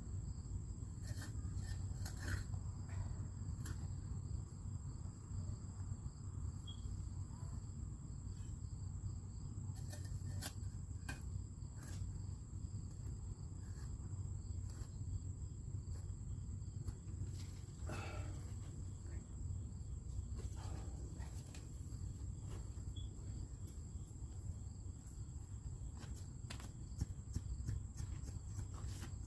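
Outdoor work ambience: scattered light knocks and clicks from hand work on the wood, over a steady high thin whine and a low steady rumble.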